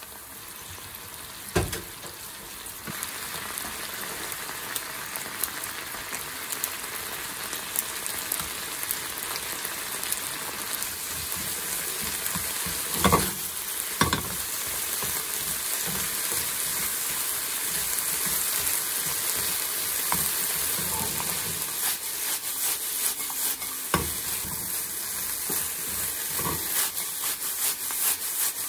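Diced peppers and onion in sauce sizzling in a frying pan, then crisp pieces of scorched-rice crust (nurungji) sizzling as they are stirred and tossed in. The sizzle grows gradually louder, with a few sharp knocks against the pan.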